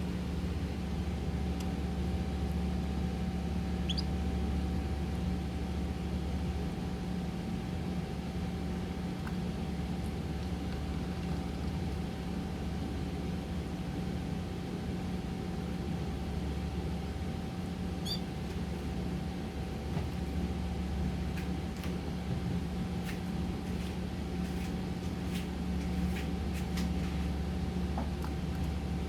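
Steady low machine hum with a thin steady tone above it, broken by scattered faint clicks and two brief high chirps.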